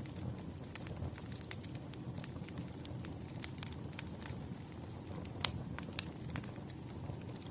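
Burning firewood crackling: irregular sharp pops and snaps over a steady low rush of flame, with a couple of louder pops about five and a half and six seconds in.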